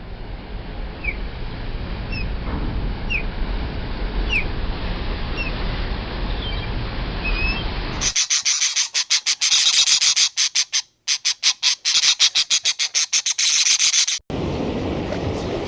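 Scattered short bird chirps over a steady rushing background noise, then an abrupt switch about eight seconds in to a rapid, harsh, high-pitched pulsing rattle, broken twice by short gaps.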